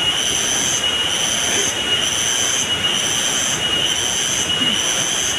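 Steady rushing of river water, with a high steady whine and a shrill pulsing sound about once a second over it.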